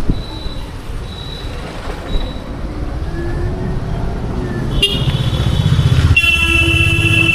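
A horn sounds briefly nearly five seconds in, then a long steady horn blast starts about a second later and holds, over low road and wind rumble.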